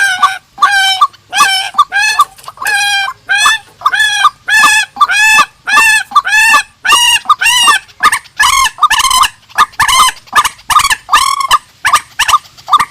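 Rails calling over and over, about two calls a second, each call a short note that bends in pitch. The title names the calls as those of the chim trích (swamphen) and chim cuốc (white-breasted waterhen).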